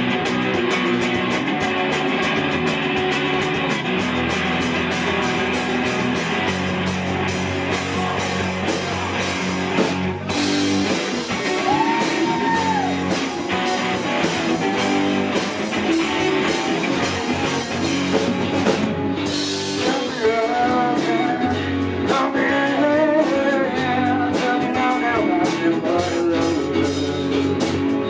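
Live rock band playing with electric guitars, bass and drum kit; a voice sings over it in the second half.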